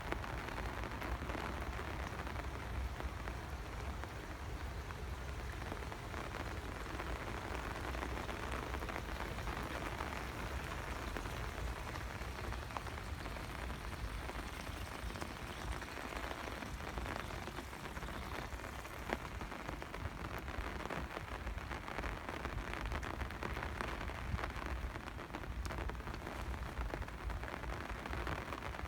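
Steady rain falling, a continuous hiss of many small drop ticks.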